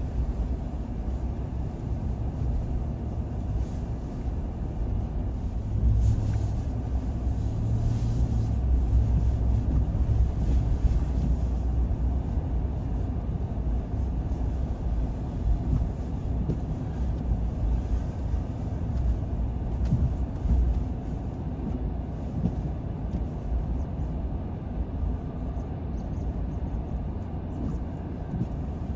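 Car driving along a road: a steady low rumble of engine and tyres, swelling a little for several seconds about a quarter of the way in.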